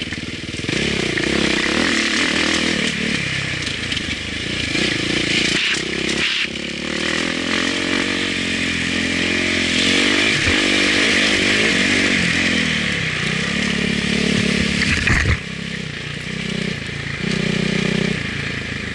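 Motocross bike engine heard from on board, revving up and falling off again and again as the rider works the throttle and gears. About fifteen seconds in there is a sudden sharp knock, after which the engine runs quieter.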